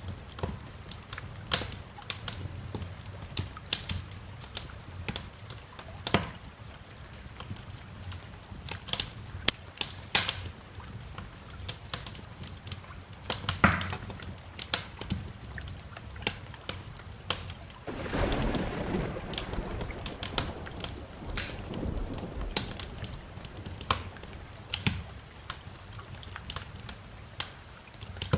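Wood fire crackling, with irregular sharp pops and snaps over a steady patter of rain. A low rumble of thunder swells about two-thirds of the way through and fades out over a few seconds.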